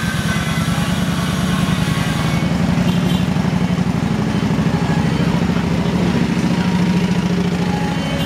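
Small motorbike engine running steadily under way, its pitch rising slightly in the middle, with wind rumbling on the microphone.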